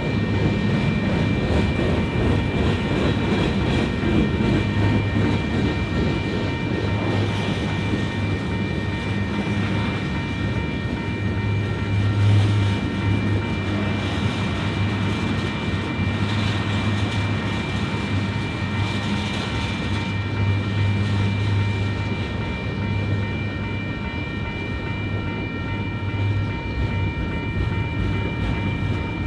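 Union Pacific manifest freight train rolling past: a steady rumble of wheels and cars, with several steady high tones held throughout.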